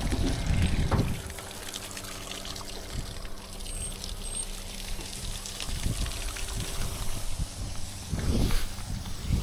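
Water from a hose left running, trickling and pouring as it rinses, with a faint steady hum underneath. There are low rumbling bumps in the first second and again near the end.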